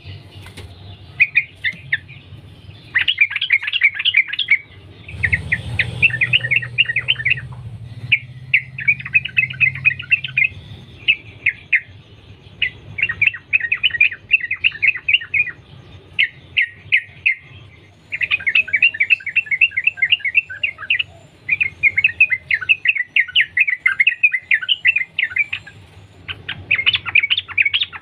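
Yellow-vented bulbul singing fast, bubbling chattering runs in phrases of one to three seconds with short breaks between them. The song is a continuous, rapid-fire delivery. A low rumble comes in about five seconds in and lasts a couple of seconds.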